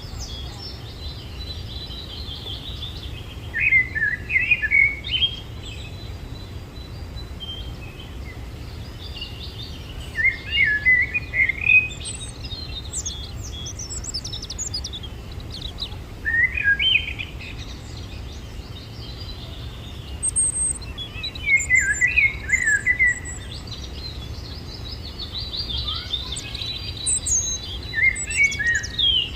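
A bird singing short phrases of quick, jumbled chirps, one about every six seconds, with fainter higher chirps in between over a steady low hum.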